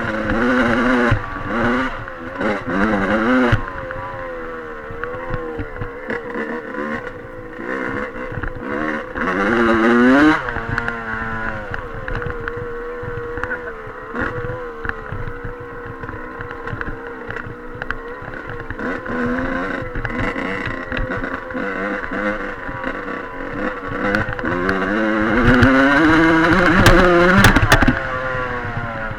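Dirt bike engine being ridden, revving up and falling back as the throttle is worked: short bursts near the start, a climb around ten seconds in, and a long rising rev near the end with a few sharp knocks.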